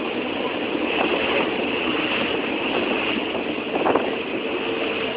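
Train running on the track: a steady rumble and rattle, with a knock about four seconds in.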